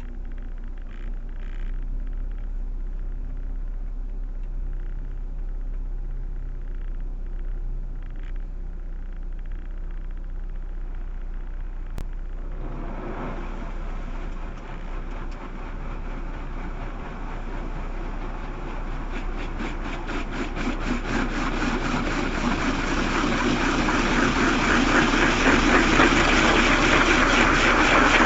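Proton Waja 1.6 engine idling low, heard from inside the cabin. About twelve seconds in, a rushing spray of noise starts suddenly and grows steadily louder, with a fast flutter: the automatic car wash running over the car.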